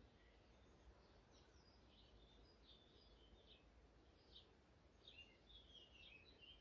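Near silence with faint birds chirping, many short calls.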